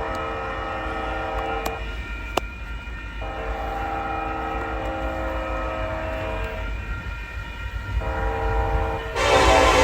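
Union Pacific freight locomotive's air horn sounding a multi-note chord in long blasts with short breaks, over a steady low rumble of the train. Near the end the sound suddenly jumps much louder and harsher as the train draws close.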